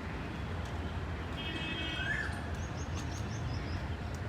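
Birds calling over a steady low rumble: a short rising chirp about two seconds in, followed by a quick run of high, thin notes.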